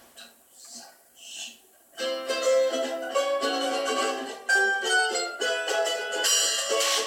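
A live acoustic band kicks off a song about two seconds in, led by strummed plucked strings; before that only a few faint short sounds. A bright rattling hiss joins the strings near the end.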